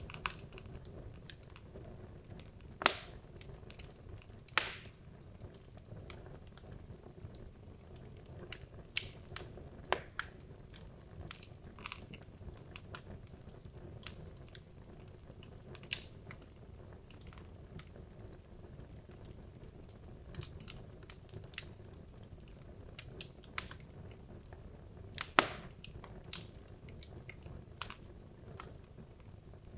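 Wood logs burning in a fireplace: a low steady rumble of flames with irregular crackles and sharp pops, the loudest about 3, 4.5 and 25 seconds in.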